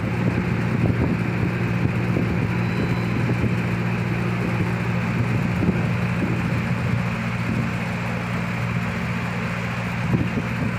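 A large engine running steadily at an unchanging pitch.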